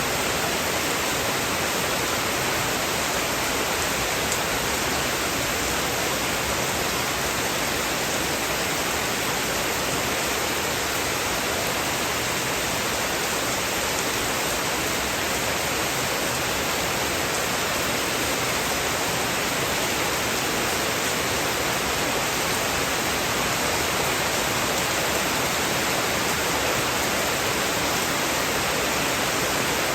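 Steady heavy rain, an even hiss with no thunder or single drops standing out.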